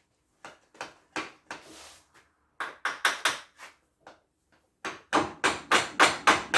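Hammer blows tapping a part into the front hub assembly of a car's suspension: a few scattered strikes, then from about five seconds in a steady run of about three blows a second.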